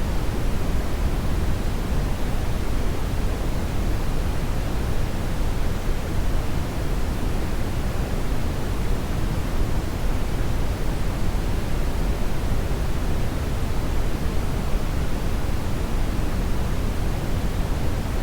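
Hair dryer running steadily: an even rush of blown air, heaviest in the low end, with no change in pitch or level.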